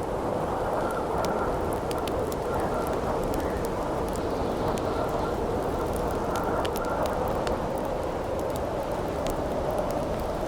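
Howling wind blowing steadily, with a faint whistling tone that comes and goes, over a crackling wood campfire giving frequent small, sharp pops.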